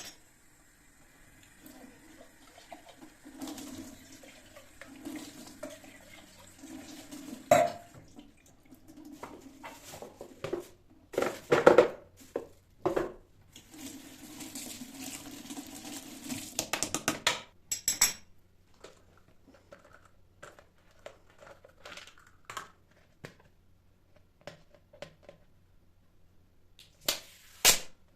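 Household kitchen sounds: dishes and utensils clattering and knocking, with stretches of water running in between.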